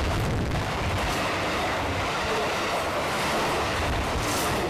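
The Yufuin no Mori diesel tourist train passes close by: a steady, loud rush of engine and steel-wheel noise on the rails.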